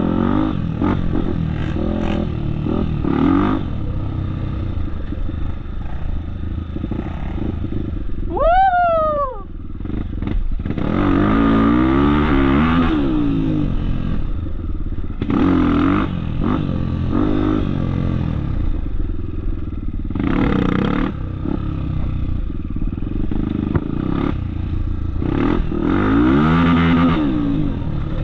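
Off-road trail motorcycle engine riding, repeatedly revving up and easing off, with clatter. About nine seconds in, a higher whine briefly rises and falls.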